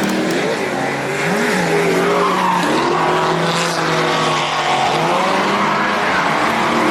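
Drift car engines revving up and down with tyre squeal as cars slide around the track.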